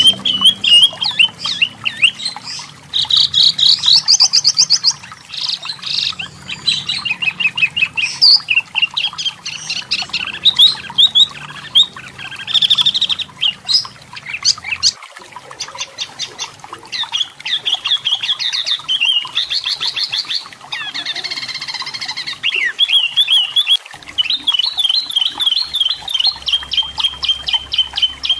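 Striped tit-babbler (wambi mini) singing continuously: fast chattering trills and runs of quick repeated notes, one phrase after another.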